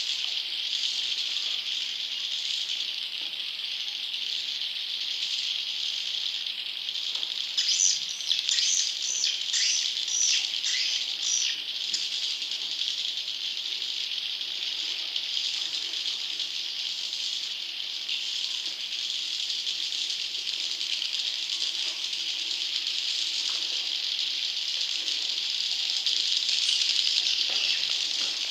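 Swiftlet chick calls, the lure sound used in swiftlet farming to attract wild swiftlets: a dense, continuous high-pitched chattering, with a burst of louder, sharper chirps about eight to twelve seconds in.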